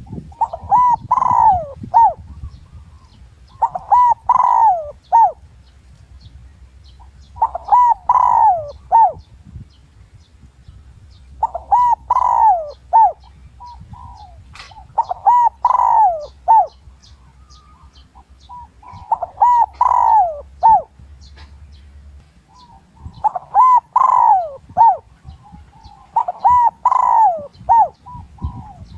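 Spotted dove cooing its territorial call in about eight evenly spaced phrases, each about a second and a half long, one roughly every four seconds. It is a decoy bird's call, used to lure wild males in to fight.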